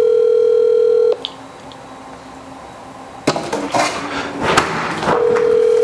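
Telephone ringback tone from a phone on speaker: a steady tone that stops about a second in and comes back about five seconds in, the call ringing unanswered. In the gap there is a sharp knock followed by a stretch of clattering and handling noise.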